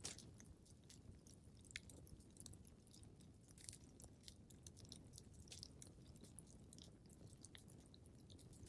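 Fireplace wood fire crackling quietly: irregular small snaps and pops over a low steady rumble.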